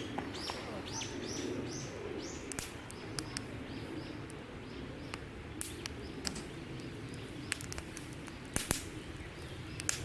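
Wild birdsong in woodland: a run of short, falling high-pitched notes in the first few seconds, continuing more faintly, with a few sharp clicks, the loudest about eight and a half seconds in.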